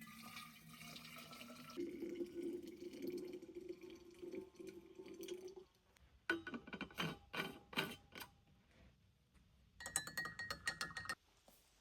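Liquid poured into a container, followed by several sharp knocks and a short run of clatter near the end.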